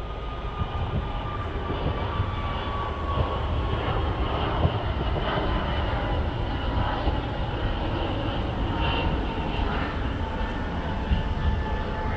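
Airliner at the airport with its engines running: a steady low rumble with a faint whine that drifts slowly down in pitch.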